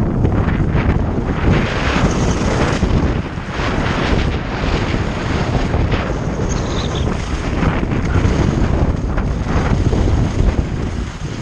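Wind rushing over a downhill skier's microphone, with skis scraping on the snow in surges through the turns.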